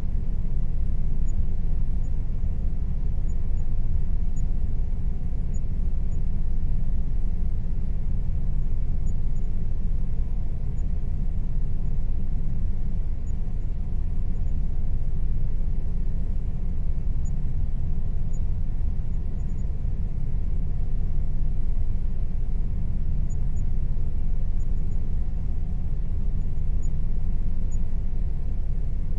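Air conditioner running steadily: a constant deep rumble with a faint steady hum above it.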